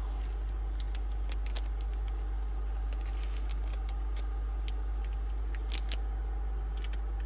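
Scattered light clicks and small rattles of objects being handled, over a steady low hum.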